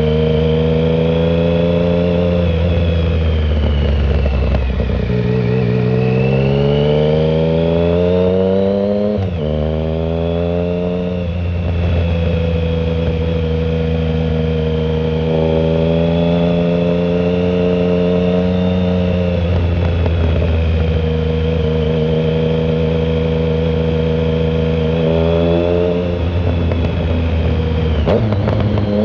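2009 Triumph Speed Triple 1050's inline three-cylinder engine through a shorty Competition Werkes exhaust with no silencer, under way on the road. The revs fall, then climb through a gear to an upshift about nine seconds in, climb again briefly, and then hold steady at cruise with small lifts of the throttle near the end.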